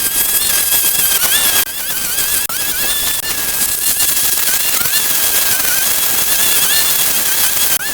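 A small motor whines at a wavering pitch over a dense, crackling, hissing noise, broken off abruptly about one and a half seconds in and again near the end.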